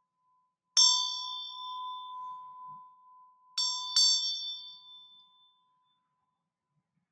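A small high-pitched metal chime struck three times: once, then twice in quick succession about three seconds later, each ring dying away over a second or two. A faint steady tone sounds beneath it.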